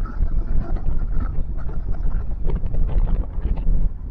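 Wind buffeting the microphone of a motorcycle rider on the move, a steady loud low rumble with the motorcycle's running noise underneath.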